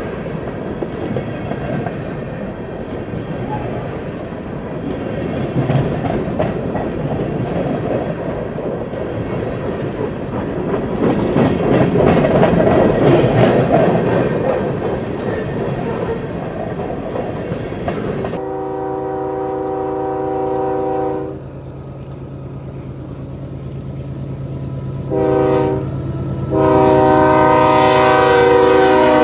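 Freight train rolling past: a steady rumble of loaded coal hopper cars with wheels clattering over the rail joints. After a sudden change, a diesel locomotive's multi-chime air horn sounds over the engine's steady drone: one blast, a short one, then a long one that is still going at the end.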